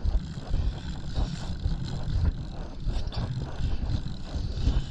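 Uneven, gusty low rumble of a boat on choppy sea, with wind buffeting the microphone.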